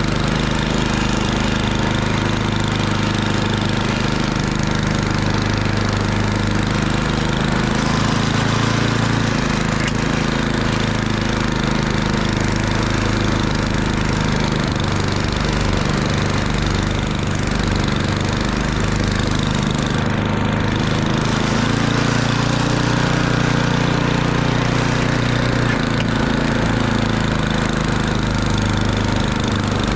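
Murray Ultra 8/27 snowblower's 8 hp single-cylinder engine running steadily, with a slight shift in pitch a little past the middle.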